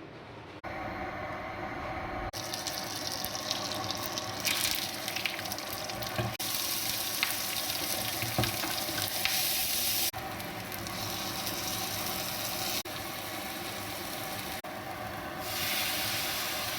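Chicken sukka frying and sizzling in a pan, a steady hiss that jumps in level at several abrupt cuts between short clips.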